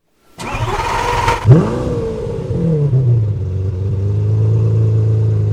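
A vehicle engine starting: about a second of cranking, then it catches with a quick rev that rises sharply and settles into a steady idle.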